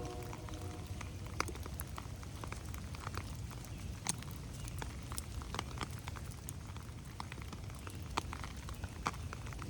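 Rain falling in a forest, with irregular drops ticking onto leaves and ferns over a low steady rumble.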